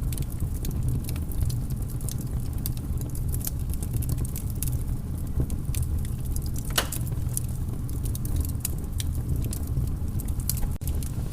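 Wood fire crackling in a fireplace: irregular small pops and snaps, with one louder crack about seven seconds in, over a steady low rumble.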